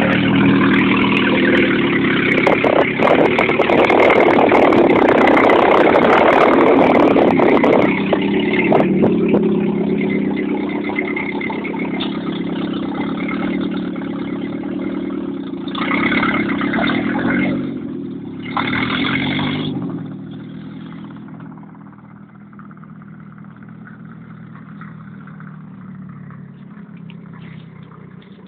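Opel Ascona engine running with no exhaust fitted, loud and raw. It revs hard for the first several seconds with crackling over it, revs up twice briefly about two-thirds of the way through, then fades as the car moves away.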